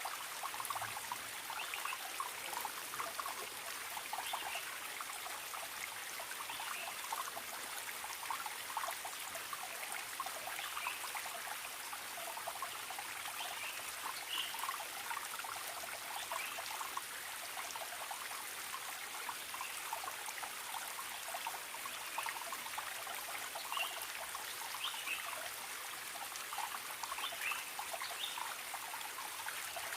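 Small forest stream trickling and burbling steadily over rocks, with many brief splashy plinks.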